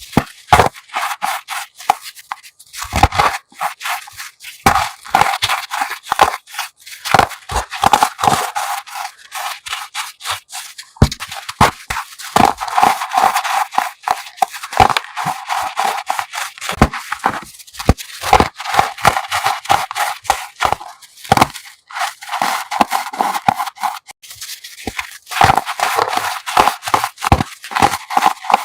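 Chalk being crushed: dense, crumbly crunching and crackling with many sharp snaps, pausing only briefly now and then.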